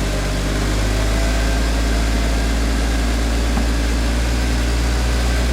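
Rock-crawling Jeep's engine running steadily at low revs under light, even throttle as it crawls up a rock ledge.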